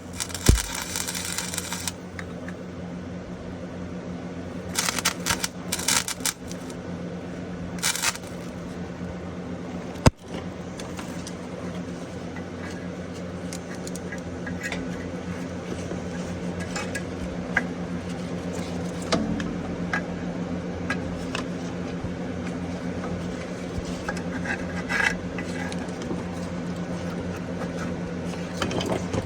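Titanium MIG welder tacking on rusty exhaust metal: short bursts of crackling arc, a few seconds apart, over a steady electrical hum, with scattered ticks and one sharp click about ten seconds in.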